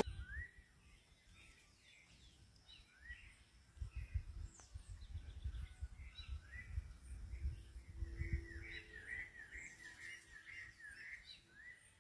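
Faint birds chirping, with short rising calls and a quick run of repeated notes near the end, over a low rumble in the middle.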